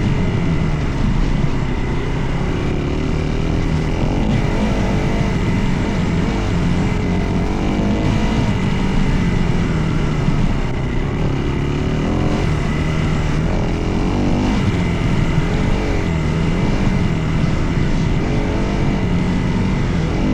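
Dirt bike engine running under way, its pitch rising and falling as the throttle is worked, with no break in the sound.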